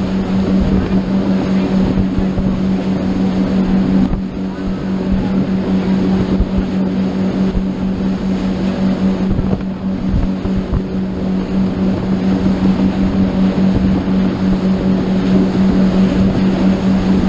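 Motorboat engine running steadily under way, a constant low drone, with wind buffeting the microphone.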